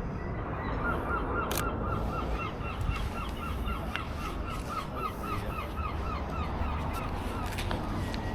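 A gull giving its long laughing call: a rapid run of yelping notes, about four a second, lasting some five seconds before it stops, over a steady low background rumble.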